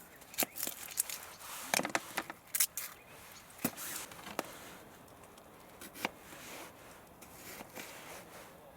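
A series of small sharp clicks and knocks, busiest in the first half and sparser after about four seconds, over a faint steady background hiss.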